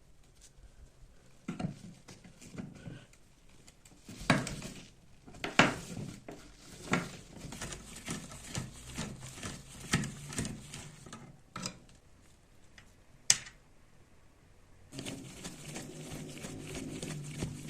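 Irregular metal clinks and knocks from the parts of a rusty antique kitchen cutting machine being handled and taken apart, some of them sharp and loud. About fifteen seconds in, a steady low hum starts.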